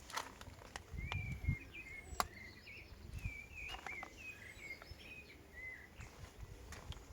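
A small bird singing a run of short chirps and warbles, with a few footsteps and sharp clicks close by.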